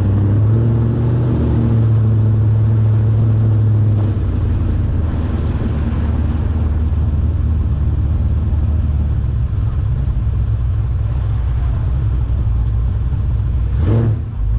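Motor vehicle engine and road noise, a steady low drone whose engine note drops about four seconds in, with a brief break near the end.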